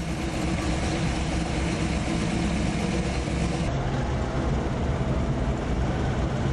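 Car engine idling with a steady, even rumble.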